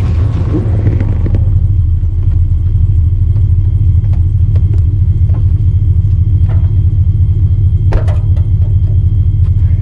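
Mud buggy's engine running with a steady low rumble, easing off from revving in the first second or so. A couple of sharp knocks come about eight seconds in.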